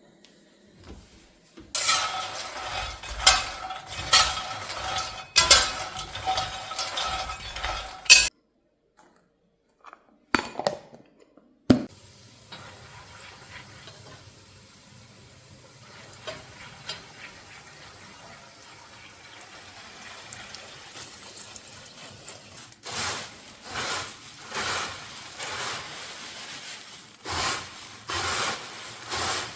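Cooking sounds in a kitchen, in several short cuts. Metal utensils clatter and ring against pots and pans, then two sharp knocks, then a long steady hiss like food frying. Near the end comes a run of rhythmic stirring or scraping strokes, about one a second.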